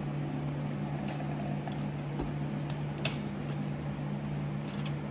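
Steady low room hum with a few light clicks of dishes and cutlery as a meal begins, the sharpest click about three seconds in and a few more near the end.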